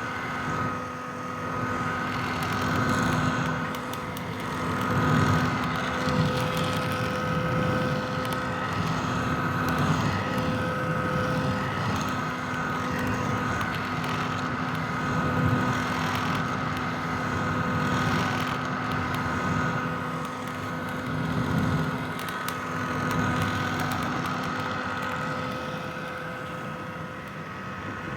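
Vintage hair dryer running steadily: a motor-and-fan hum with a few constant tones over a broad whoosh of air. The level swells and eases slightly every few seconds.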